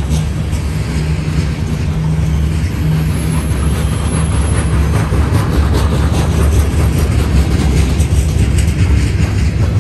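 Covered hopper cars of a freight train rolling past close by: a steady low rumble of steel wheels on rail, with irregular clicks and clanks from the wheels and couplings.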